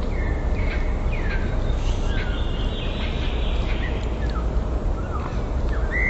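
Songbirds calling with short whistled notes that slur up and down, one held a little longer about halfway through, over a steady rushing noise of flowing river water.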